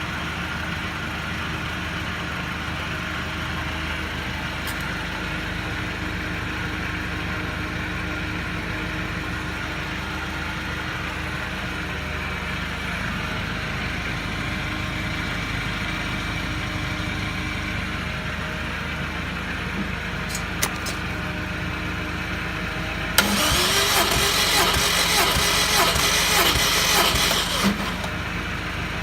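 Steady mechanical hum, then, about 23 seconds in, a Subaru Impreza WRX flat-four engine is cranked on its starter for about four and a half seconds, with rhythmic pulses from the compression strokes, during a compression test.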